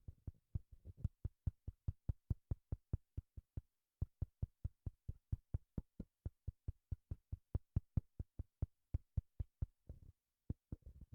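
Handling noise of a Lexau XD1P handheld wireless microphone: fingers tapping its full metal body in quick, regular knocks, about five a second, with two short pauses.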